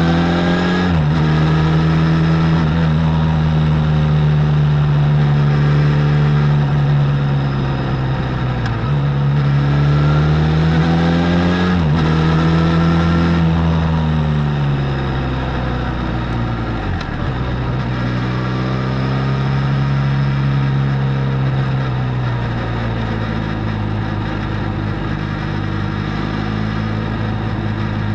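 Benelli Leoncino 500 parallel-twin engine through its stock exhaust, under way: the engine note rises as it pulls and drops sharply at gear changes about a second in and again around twelve seconds, then settles to a lower, steady cruise in the last few seconds.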